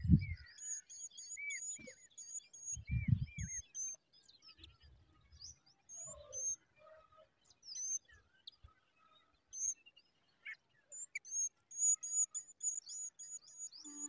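Small birds chirping, a steady scatter of short high-pitched notes with a few lower arched calls in the first few seconds. Two short bursts of low rumble, one at the very start and one about three seconds in, are the loudest sounds.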